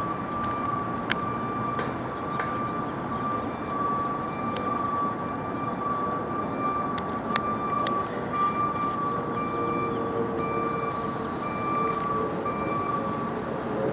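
McNeilus front-loader garbage truck running, with a steady high whine over the engine noise and a few sharp clanks.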